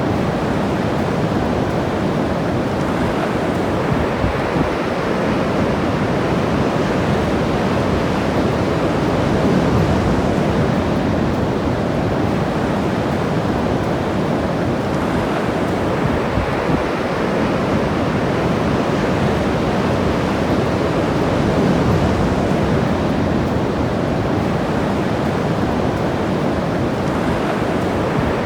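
Ocean surf washing onto the beach: a steady rushing wash that swells a little twice, about a third of the way in and again near three quarters through.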